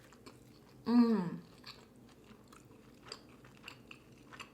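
A person chewing a mouthful of burger close to the microphone, with soft wet mouth clicks. About a second in comes a short, loud hum from the eater that falls in pitch.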